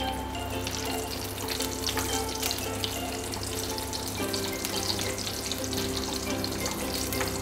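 Cashew nuts frying in ghee in a pan, a steady crackling sizzle with small pops as they are stirred, over soft background music with held notes.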